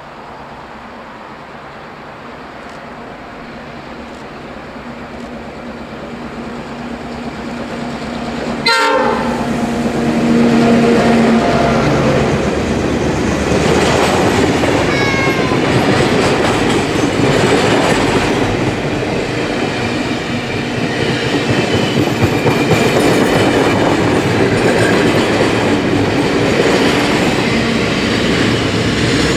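Heritage passenger train, headed by diesel locomotive 4204 with steam locomotive 5917 at the rear, passing close by. It grows louder as it approaches, and about nine seconds in the lead diesel sounds its horn briefly. Then the carriages' wheels clatter over the rails as they pass, and the steam locomotive comes by near the end.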